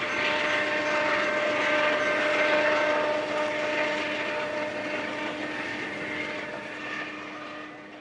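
Steady drone of a diesel train, with a hum and a whine held on even pitches, fading out over the last few seconds.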